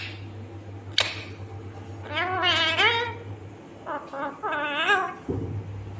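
Ringneck parakeet vocalizing: a short sharp chirp about a second in, then two bursts of high, wavering, voice-like calls, over a steady low hum.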